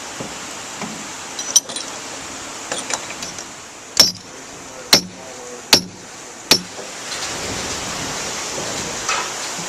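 Steady rush of running water, like a fish ladder, with several sharp clicks or clinks about a second apart over its middle; the rush grows a little louder near the end.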